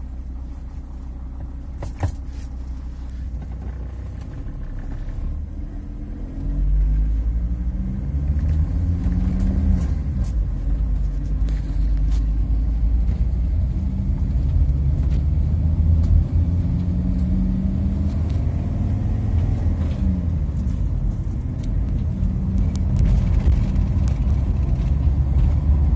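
Volkswagen T4 van's diesel engine running just after being started; about six seconds in it gets louder, and the engine speed rises and falls several times as it is revved gently.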